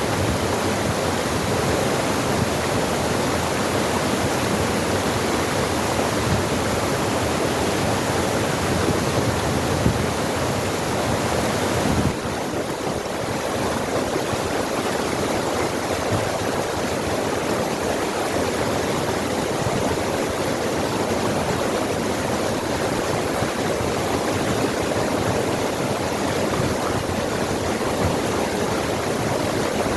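Water rushing over rocks in a forest stream, a steady, unbroken rush that dips slightly in level about twelve seconds in.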